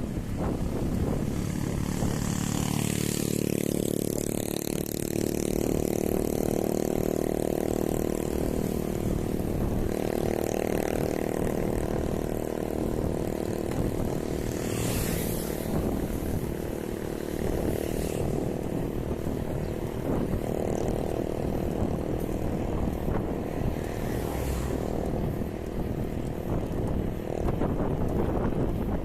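Steady vehicle-like engine drone with wind noise on the microphone.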